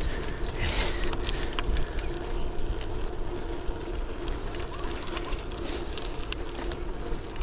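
ZiZZO Urbano folding bike rolling along a paved path: a steady tyre and road rumble with wind on the GoPro's microphone, and scattered small clicks and rattles.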